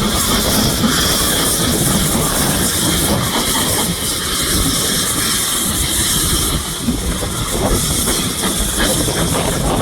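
Steam locomotive with a steady hiss of escaping steam over a low rumble and clatter of its wheels on the track.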